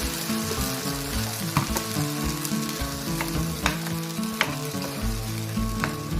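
Food sizzling as it fries in a pan with ground masala and is stirred, with a few sharp clicks of the spoon against the pan.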